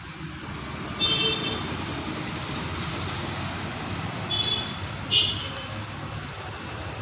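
Steady vehicle rumble with three brief high-pitched toots or squeals, about one second, four and a half and five seconds in.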